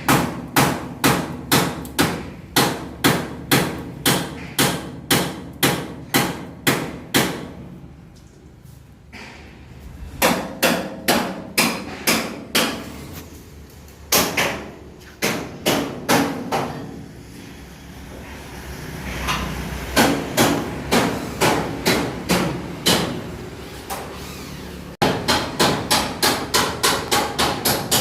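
Hammer blows on metal, struck in steady runs of about two a second with short pauses between runs, quickening to about three a second near the end.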